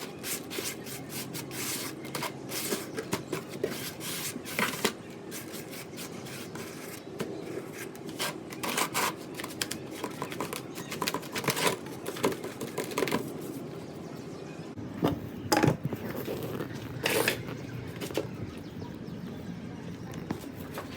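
Gritty sand-cement being worked by hand: a dense run of crisp scrapes, crackles and taps, with a few louder, sharper strikes about three quarters of the way in.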